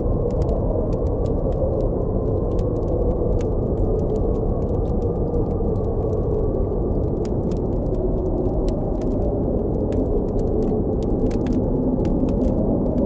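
Steady low rush of blizzard wind with a faint, slowly wavering howl, under frequent small crackles and pops of a campfire.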